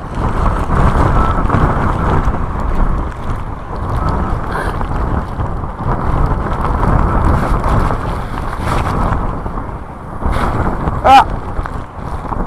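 Typhoon-force wind buffeting a sponge-covered earphone microphone worn inside clothing: a loud, gusting rumble that swells and eases. A short pitched sound rises and falls about eleven seconds in.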